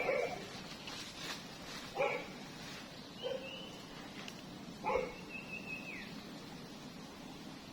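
A dog barking and whining: four short barks a second or two apart, the last two trailing into high drawn-out whines.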